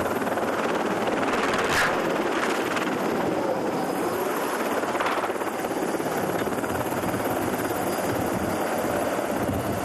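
Helicopter engine and rotor running, a steady dense rushing noise at an even level.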